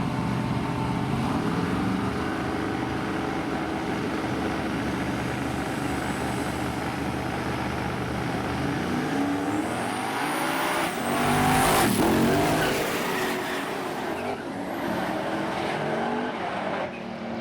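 Drag-racing truck engines running hard on a no-prep drag strip. The engine note steps through several pitches, then a loud pass comes about two-thirds of the way through, its pitch rising into the peak and falling away after it.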